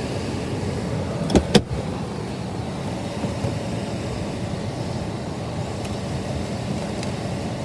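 Steady hum inside the cabin of a 2022 Mitsubishi Outlander idling with its air blowing, with two sharp clicks close together about a second and a half in.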